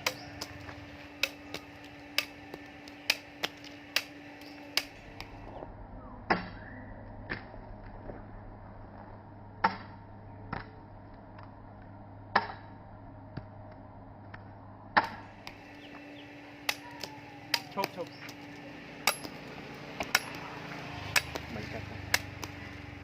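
A series of sharp, irregular knocks, roughly one a second, from tool strikes in a blacksmith's workshop, over a low steady hum.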